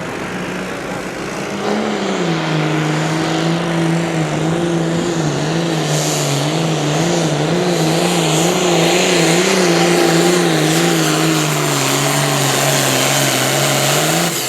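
Engine of a competition pulling vehicle working hard under load as it drags the sled down the track. The revs climb about two seconds in, hold high with the pitch wavering up and down, and sag a little near the end as the sled bogs it down.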